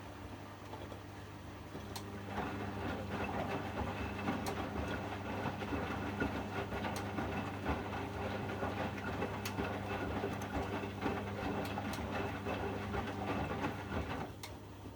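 Washing machine drum tumbling: the motor starts about two seconds in, turns the drum steadily for about twelve seconds and stops near the end, over a constant hum. Sharp clicks every two to three seconds.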